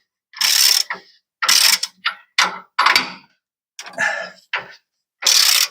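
Hand ratchet wrench tightening the nuts on a leaf-spring U-bolt, about seven short clicking strokes in quick, uneven succession as the nuts are run down snug.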